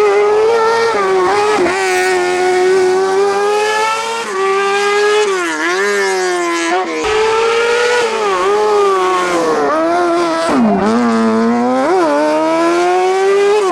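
Race car engine held at very high revs on a hillclimb run, a sustained high-pitched note that dips briefly several times as the driver lifts or shifts and then climbs straight back.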